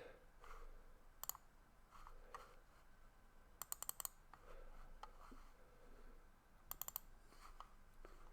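Faint clicks of a computer mouse and keyboard: a single click, then two quick runs of several clicks each.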